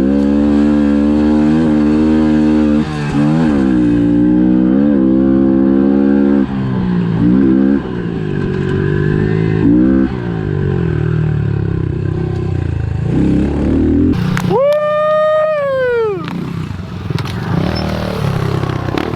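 A pit bike's small single-cylinder engine revving hard, its pitch climbing and dropping sharply several times as the rider shifts and chops the throttle. Near the end, a loud, high, held tone cuts over the engine for about two seconds.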